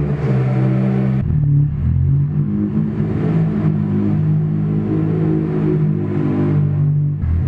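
Supercharged Honda K20 engine in a Civic running hard in an enclosed underground garage, its revs holding steady and then jumping to new levels every second or so.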